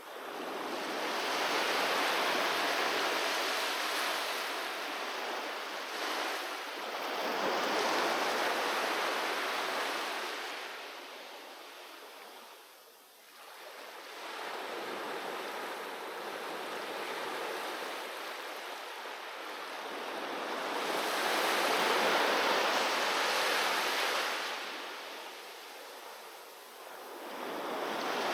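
Ocean waves breaking and washing up on a beach, swelling and fading in long surges of surf, with brief lulls about halfway through and near the end.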